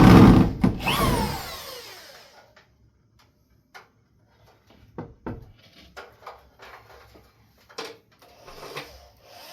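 A power drill runs briefly, then winds down with a falling pitch. Scattered light knocks and clicks follow.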